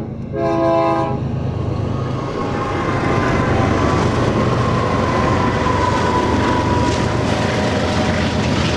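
Approaching BNSF freight train: the lead diesel locomotive's multi-note horn sounds a short final blast that ends about a second in, then the locomotives run past with loud engine rumble and wheel-on-rail noise that builds from about two and a half seconds in.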